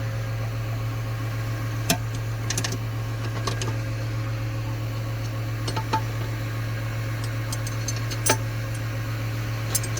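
A steady low engine hum, with a few light metal clicks and taps scattered through it as hand tools are worked on the skid steer's quick coupler.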